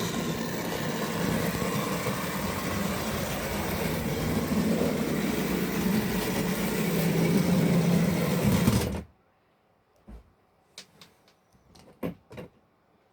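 A vintage Tri-ang model train's electric motor running along the track, getting a little louder toward the end, then stopping abruptly about nine seconds in. A few light clicks follow.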